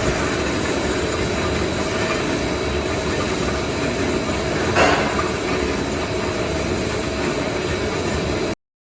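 Steady running machine noise, with a brief louder burst about five seconds in, cutting off suddenly near the end.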